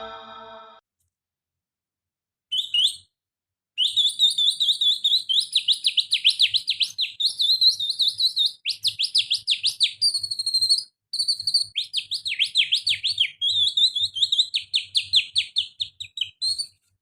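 Canary song imitated by a person with the little finger: fast trills of rapid rising and falling notes. A short phrase comes about two and a half seconds in, then near-continuous trilling with brief breaks.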